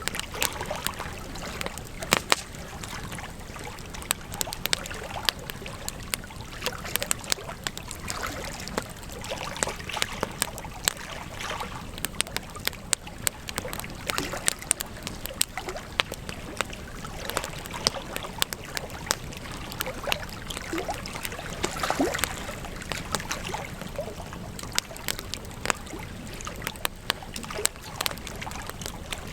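Wood campfire burning, crackling and popping with many irregular sharp snaps over a steady hiss, a few louder pops among them.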